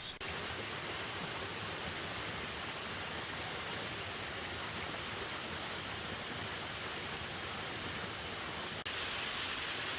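Waterfall running: an even, steady hiss of falling water. Near the end it briefly drops out and comes back slightly louder and brighter, as from a second shot.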